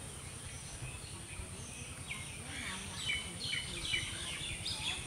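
Birds chirping: a run of short chirps falling in pitch in the second half, over a faint steady outdoor background.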